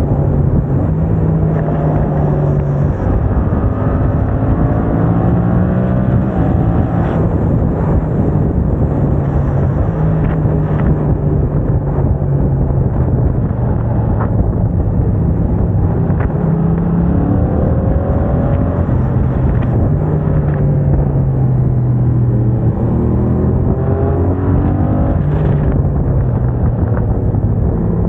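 Yamaha MT-07's 689 cc parallel-twin engine through a MIVV aftermarket exhaust, ridden under load. The revs climb and then drop in quick steps several times as gears are changed with the HealTech quickshifter.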